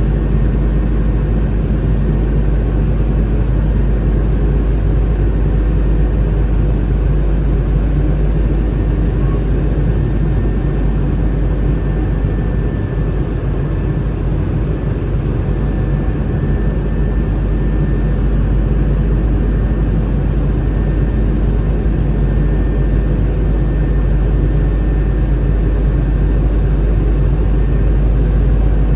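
Steady, loud cabin noise inside an Airbus A319 in flight: a deep, even rumble from its CFM56 engines and the airflow, with a faint steady hum above it.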